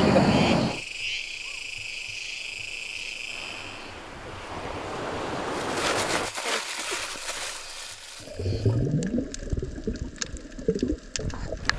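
Sea surf and wind noise, in several stretches that change abruptly from one to the next, with short pitched calls or voice sounds in the last few seconds.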